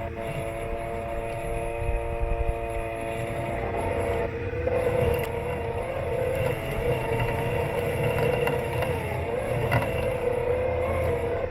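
Robot lawn mower's electric motors running with a steady whine that wavers slightly in pitch in the middle, over a low rumble as the mower drives across the lawn. It is heard from a camera taped onto the mower's body.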